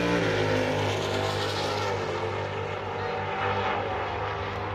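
Drag racing cars' engines running hard down the strip: a loud, steady engine drone with several tones, stepping down in pitch just after the start.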